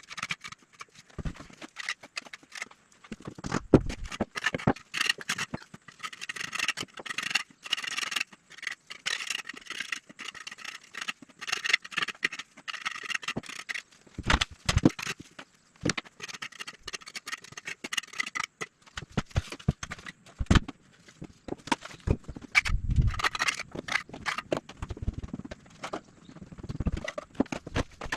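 Hand-tool work on a fireplace top: irregular knocks and taps, with a stretch of scraping in the middle and a few heavier thumps near the end.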